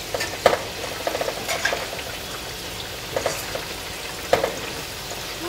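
Urad dal vadas deep-frying in hot oil in a kadhai: a steady sizzle, with a few sharp clicks of a utensil against the pan as they are turned, the clearest about half a second in and just past four seconds in.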